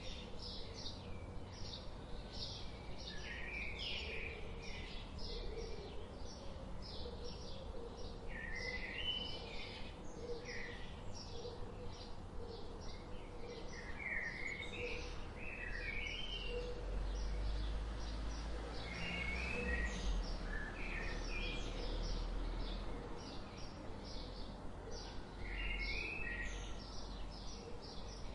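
Forest ambience of several small birds chirping and singing, with rapid short chirps repeating throughout and occasional warbling phrases, over a steady low background hiss. A low rumble swells for a few seconds in the middle.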